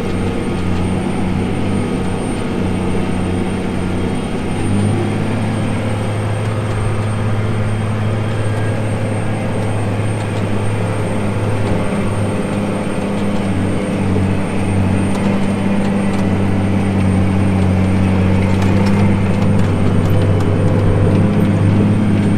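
Farm tractor's diesel engine running steadily under load while pulling a tillage digger through the field: an even drone that grows a little louder toward the end.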